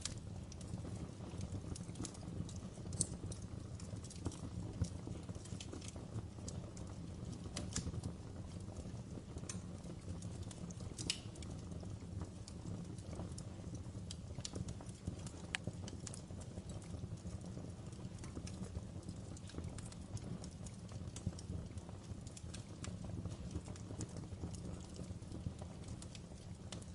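Logs burning in a fireplace: a steady low rumble of flames under dense, irregular crackling, with a handful of sharper pops scattered through.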